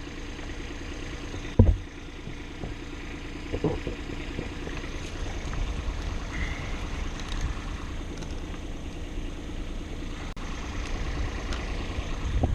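An engine idling steadily, with a sharp knock about a second and a half in.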